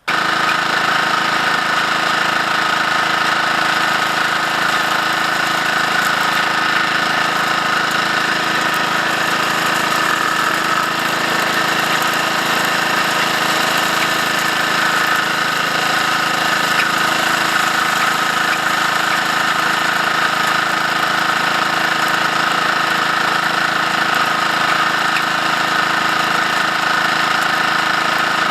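Gold prospecting dry washer running, its small gas engine and blower making a loud, constant mechanical drone.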